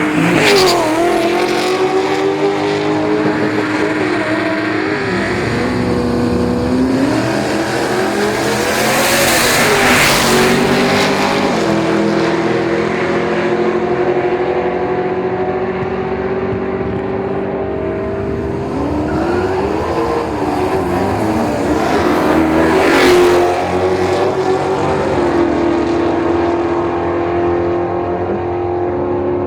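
Drag-racing street cars, engines idling and revving with pitch rising and falling, and two louder full-throttle rushes about ten and twenty-three seconds in.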